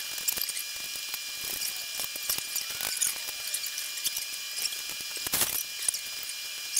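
Hand-tool work on a motorcycle: scattered light clicks and ticks with faint squeaks, and one louder brief scrape about five seconds in.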